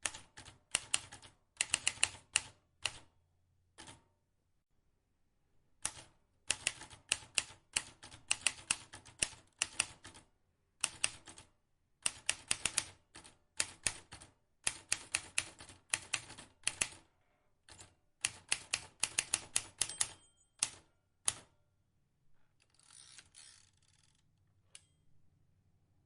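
Vintage typewriter keys clacking in quick runs of several strokes a second, with a pause of about two seconds early on. Near the end the typing stops and a short, softer scraping noise follows.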